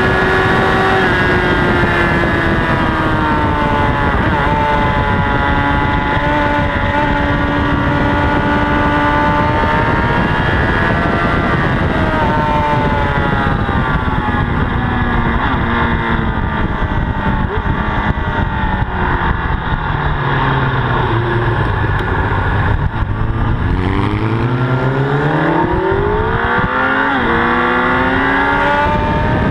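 Honda CBR1000RR inline-four sportbike engine heard from an onboard camera, its pitch falling in several steps as the bike slows, lowest about two-thirds in, then climbing again in quick steps through the gears near the end. A loud steady wind rush runs under it.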